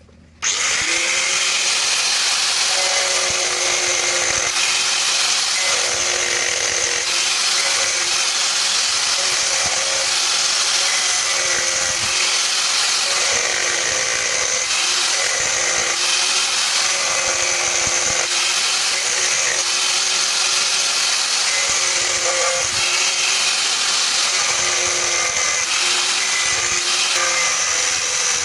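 Electric power tool switched on at the start and then running steadily under load, with a constant high hiss and a faint steady hum beneath it.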